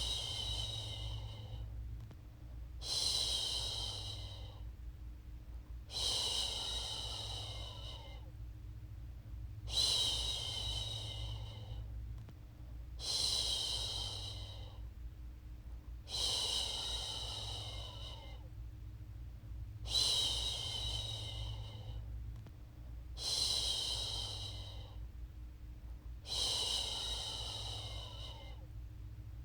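A woman shushing to soothe a baby to sleep: a long "shhh" about every three seconds, each starting strong and fading away, over a steady low hum.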